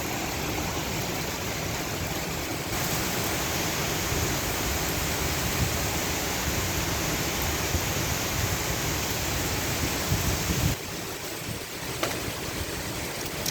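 Heavy rain pouring steadily, a dense even hiss with occasional sharp drip ticks. It turns brighter and slightly louder about three seconds in, then drops off abruptly near eleven seconds.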